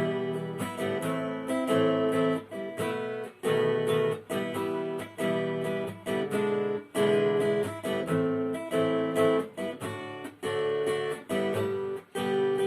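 Acoustic guitar strummed in a steady rhythm, chords only with no singing.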